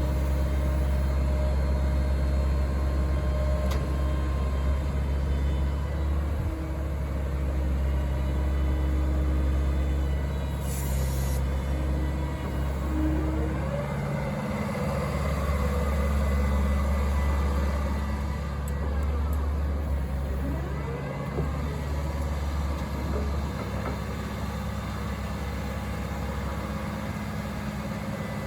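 Diesel engine of a Terex TC125 hydraulic excavator running steadily with a deep hum, with faint pitch glides from the machine's working parts partway through.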